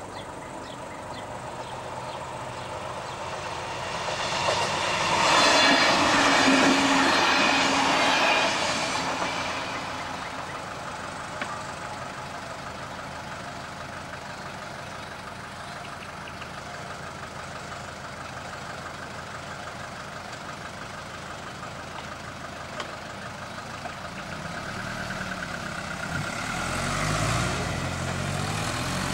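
A Y2 diesel multiple-unit train passing, swelling to its loudest about six seconds in and fading away by about ten seconds. Near the end a car drives over the level crossing, its engine growing louder as it passes.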